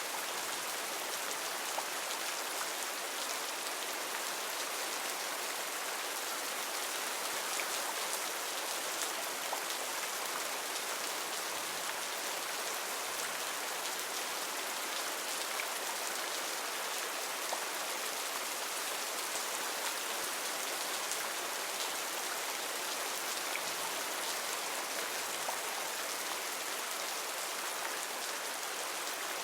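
Heavy rain falling steadily on foliage: a dense, even hiss of countless drops with small individual drop ticks.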